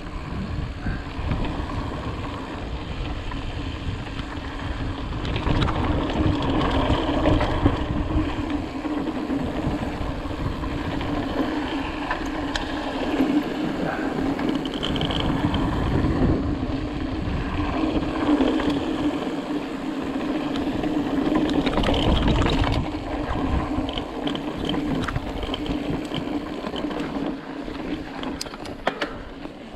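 Ibis Ripley mountain bike riding down a rocky line: tyres rumbling and jolting over rock, with a steady hum and wind across the camera microphone. Scattered sharp clicks and knocks come from the bike going over ledges.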